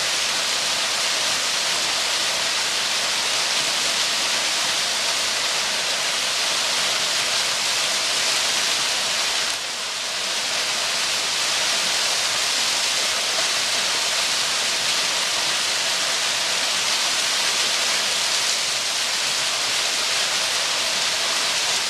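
Waterfall rushing steadily, a loud even roar of falling water with a brief slight dip about ten seconds in.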